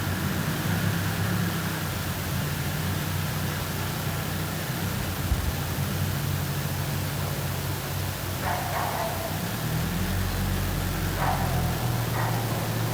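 A steady low engine hum under a haze of hiss, with three short higher-pitched sounds about eight, eleven and twelve seconds in.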